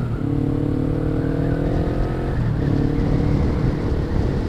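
Suzuki GS500's parallel-twin engine running through an aftermarket Delkevic exhaust while the bike is ridden along at speed, with wind rush. The engine note breaks off briefly a little past halfway and picks up again.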